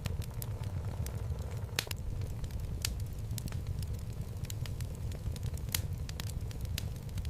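Wood fire burning in a fireplace: a steady low rumble of flames with irregular sharp crackles and pops from the logs, a couple of them louder than the rest.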